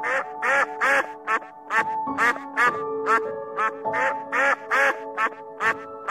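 Mandarin ducks calling in a quick series of short calls that rise and fall in pitch, about three a second, over background music with long held notes.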